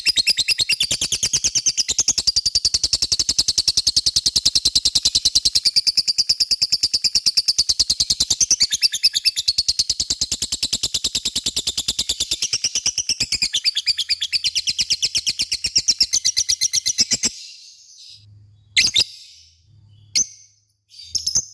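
Lovebird giving its long 'ngekek' song, a rapid, unbroken chattering trill of fast repeated high notes. The trill cuts off about 17 seconds in and is followed by a few short separate chirps.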